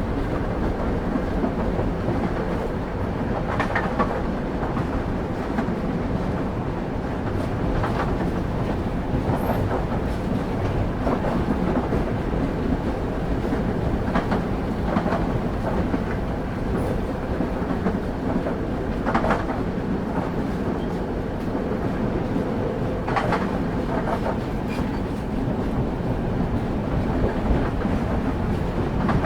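Train carriage's wheels running steadily on the rails, a continuous low rumble heard from on board, with occasional sharp clacks every few seconds as the wheels pass over rail joints.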